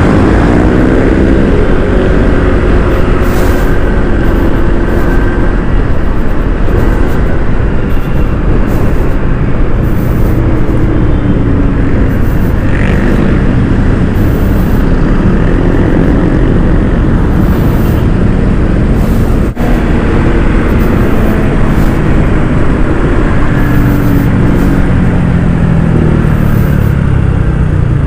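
Honda ADV160 scooter's single-cylinder engine pulling away from a stop, its pitch climbing in the first few seconds and changing again near the end, under steady wind and road noise.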